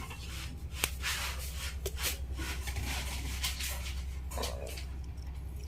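Small clicks and rustles of hands handling wires and lithium-ion battery cells while connecting a battery pack, with one sharper click about a second in, over a steady low hum.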